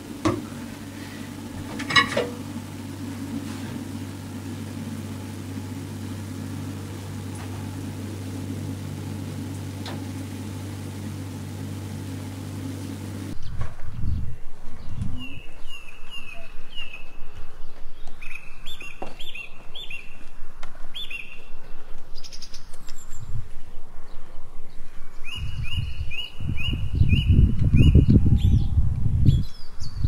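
A steady low hum with a short clink about two seconds in. After a cut about thirteen seconds in, a small bird repeats short chirps in quick runs, with a low rumbling noise building near the end.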